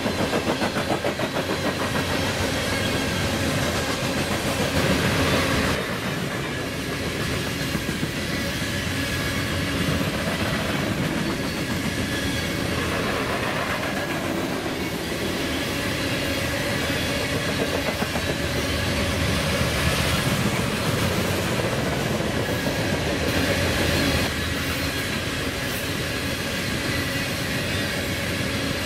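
A train rolling past, its cars' wheels clacking over the rail joints in a steady rhythm.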